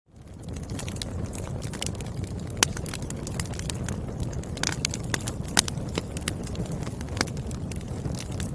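Wood fire burning, with a steady low rumble of flames and irregular crackles and sharp pops from the burning firewood, a few pops standing out louder. It fades in from silence at the very start.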